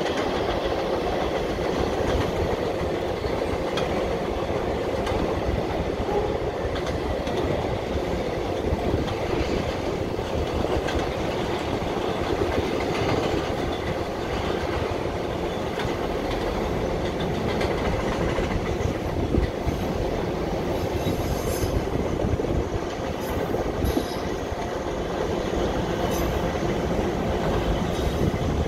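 Freight train of autorack cars rolling past on a steel girder bridge: a steady rumble of wheels on rail. A few sharp clicks come about three-quarters of the way through.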